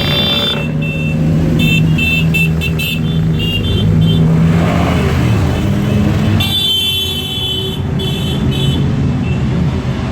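Motorcycle engines running steadily, with a series of short, high-pitched toots over them, the longest starting about six and a half seconds in.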